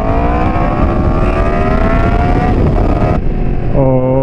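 Yamaha FZ-10 inline-four motorcycle engine accelerating, its pitch rising steadily for about two and a half seconds, under wind rushing past the helmet microphone.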